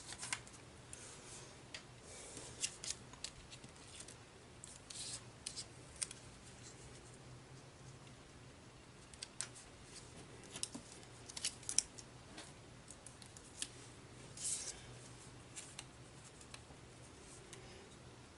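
Paper and cardstock being handled: irregular short crisp clicks and snips, with a few brief rustles about five seconds in and again near three-quarters of the way through.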